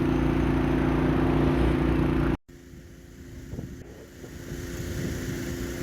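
A car running with a steady engine hum and road noise, cut off abruptly about two and a half seconds in; after that a much quieter steady hum with a few faint knocks.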